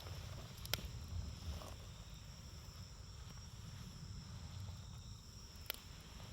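Campfire burning with a low rumble and two sharp crackling pops, one about a second in and one near the end, over a steady high trill of insects.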